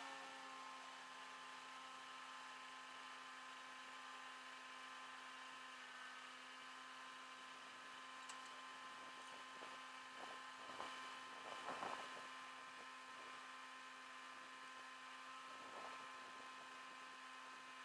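Near silence with a faint steady electrical hum, and a few soft knocks around the middle.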